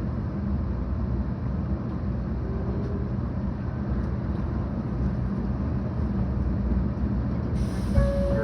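Cabin noise inside a 700 series Shinkansen car while running: a steady low rumble. Near the end a sudden hiss starts, with a single knock just after.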